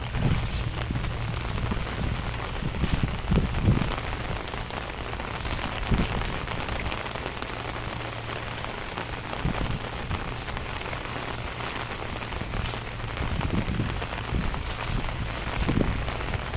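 Steady rain falling on surfaces, with many close drops ticking and a low, uneven rumble underneath.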